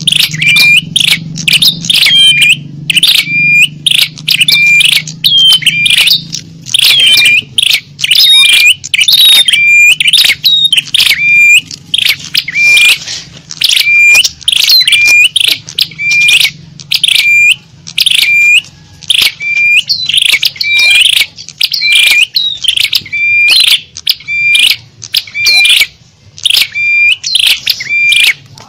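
Small-bird lure call: loud, rapid chirping calls repeated about once a second, each a short steady whistle breaking into higher chirps. A faint low hum runs underneath.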